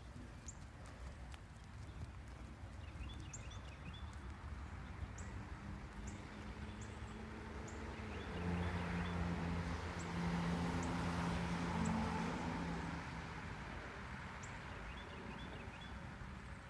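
A horse moving, its hooves clip-clopping on the ground, over a low steady hum that swells in the middle, with a few short chirps.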